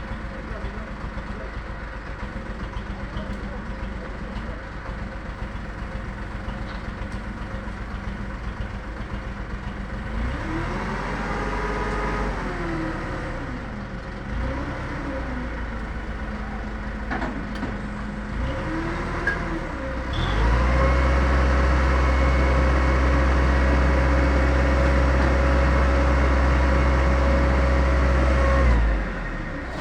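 A motor vehicle's engine idling, revved up and down a few times, then held at high revs for about eight seconds before dropping back near the end.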